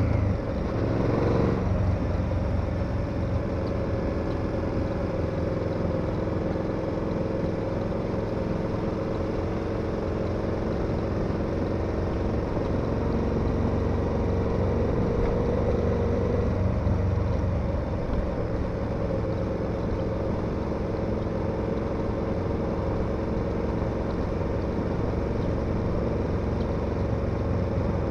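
KTM 1290 Super Adventure's V-twin engine running under way, a brief rise in pitch about a second in, then holding a steady cruising note with a slight swell around the middle.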